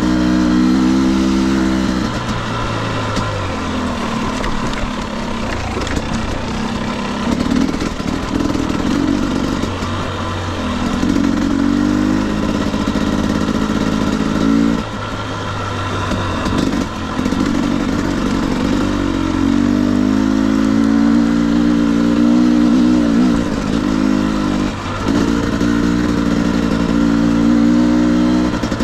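2021 Husqvarna TE250i two-stroke single-cylinder dirt bike engine running under load on a trail ride. It repeatedly revs up and backs off, with the pitch rising and falling and several short dips off the throttle.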